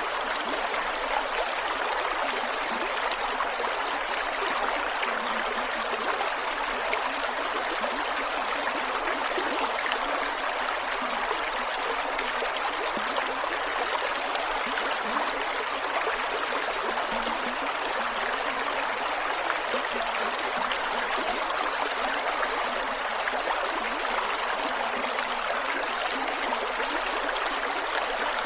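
A creek flowing over rocks, a steady rush of water with gurgles and trickles.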